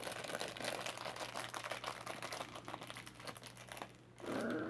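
Plastic blind-bag packaging crinkling and crackling in a child's hands as it is opened, a dense irregular run of crackles that stops about four seconds in.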